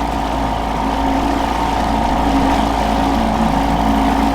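Boat motor running steadily at trolling speed, with a steady even hum.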